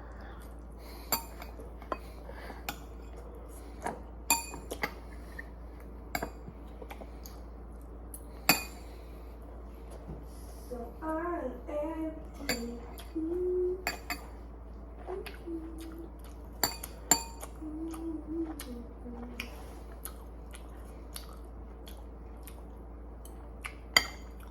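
Cutlery clinking and tapping against dishes while eating, a dozen or so sharp ringing clicks spaced irregularly. Through the middle a person's voice makes short wordless sounds. A steady low hum runs underneath.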